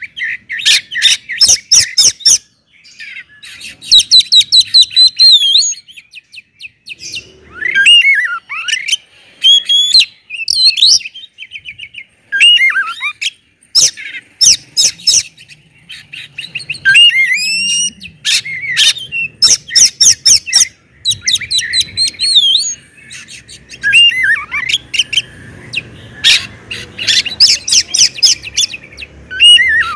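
Oriental magpie-robin (kacer) singing loudly in a varied, full song: quick runs of sharp repeated notes alternating with clear whistled rising and falling phrases, broken by short pauses.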